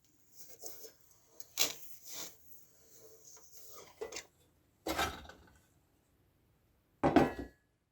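Metal parts of an old, rusty electric heater clinking and clattering as it is taken apart: a string of separate knocks and clanks with quieter handling between, the loudest clank near the end.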